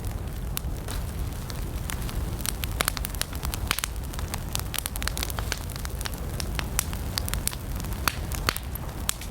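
Campfire of burning wood crackling, with frequent sharp, irregular pops and snaps over a steady low rumble of the flames.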